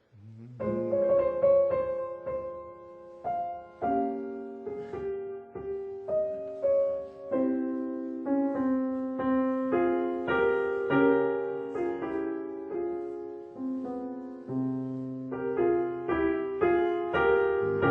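Piano playing a slow classical passage of sustained chords, starting about half a second in.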